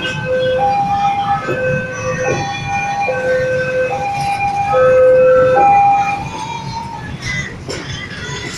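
Two-tone electronic warning siren alternating between a low and a high note about every 0.7 seconds, stopping about six seconds in.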